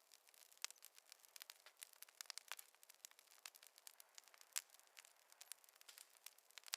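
Wood fire crackling: faint, irregular sharp pops and snaps, several a second, some louder than others.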